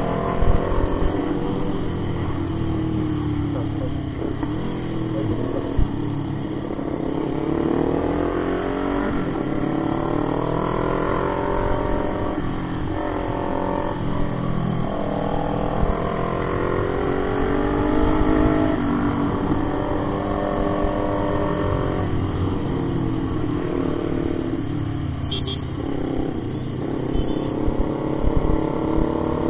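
Motorcycle engine running under way, its pitch repeatedly rising and falling as the rider works the throttle and shifts gears. A dense low rumbling noise lies underneath.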